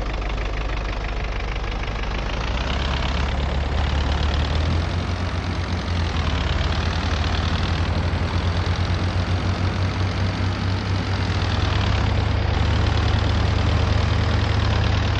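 MAZ-241 bus's diesel engine running, a steady low drone with road noise, heard from inside the passenger cabin; it grows a little louder a few seconds in.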